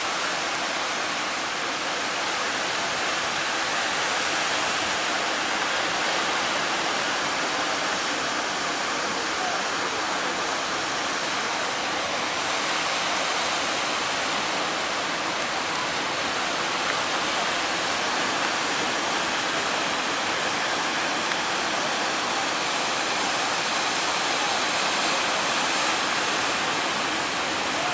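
Steady roar of breaking sea waves and surf: an even, unbroken rushing hiss with no engine tone.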